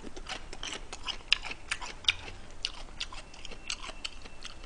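A person chewing a mouthful of spicy bulgogi with glass noodles, close to the microphone. Irregular wet mouth clicks come several times a second, with two sharper ones about a second and two seconds in.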